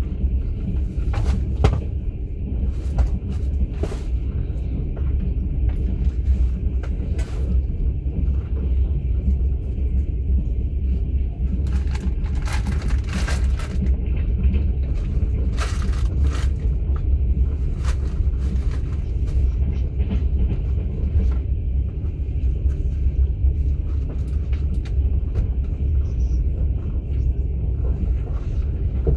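Steady low rumble of a moving passenger train heard from inside the sleeping car, with scattered short knocks and clicks at irregular intervals.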